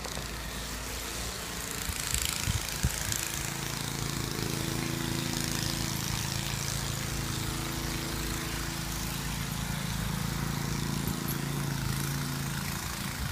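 An engine running steadily with an even hum, coming in about three seconds in over a low outdoor rumble.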